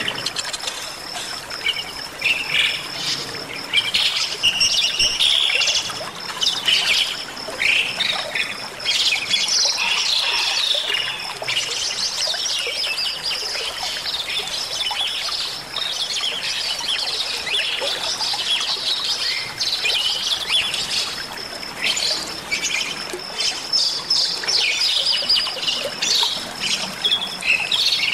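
Bali myna (Bali starling) singing a busy, nearly unbroken run of chirps and whistles, over the trickle of stream water.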